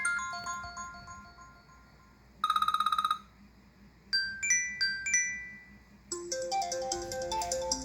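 Apple iPhone 5S ringtones and alert tones playing one after another. A chiming melody dies away. About two and a half seconds in, a short, fast trill of beeps sounds. A few bell-like notes ring out at about four seconds, and a new, busier ringtone melody starts about six seconds in.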